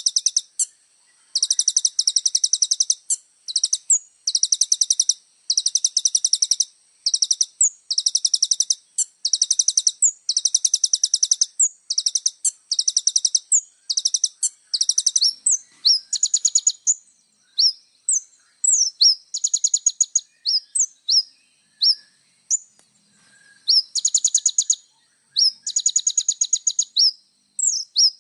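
Kolibri ninja sunbird singing: high, fast buzzy trills about a second long, repeated with short pauses. Through the middle the trills give way for a while to single sharp rising chirps, then the trills resume near the end.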